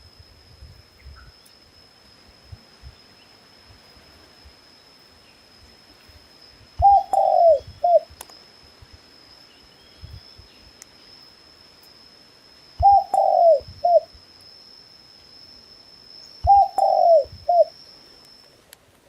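A dove cooing: three phrases, each a short coo, a longer falling coo and a short coo. A steady high-pitched tone runs underneath and stops shortly before the end.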